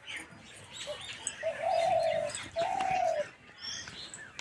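Bird calls: two drawn-out calls in the middle, the first just under a second long and the second shorter, over faint chirping of small birds.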